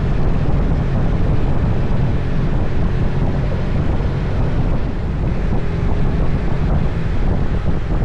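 Motorcycle riding at speed: steady wind rushing over the microphone, with engine and road noise underneath.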